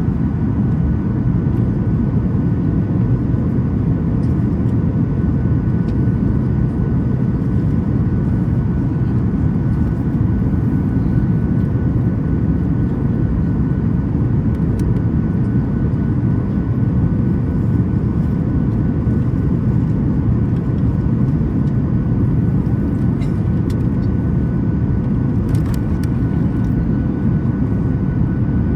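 Steady cabin noise inside a Boeing 737 MAX 8 airliner in flight: a loud, even, low rush of airflow and engine noise, with a few faint steady high tones above it.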